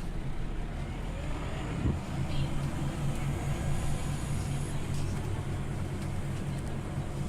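Scania OmniLink CL94UB city bus under way, heard from inside: the diesel engine runs steadily under road noise, with a short bump about two seconds in.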